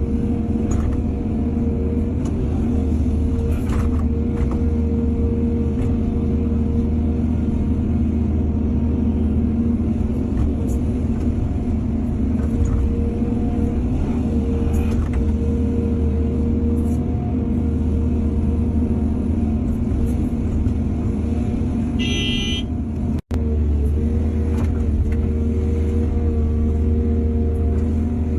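Diesel engine of an excavator running steadily under load, with a few faint clanks. About 22 seconds in a short high tone sounds, and the sound cuts out for an instant just after.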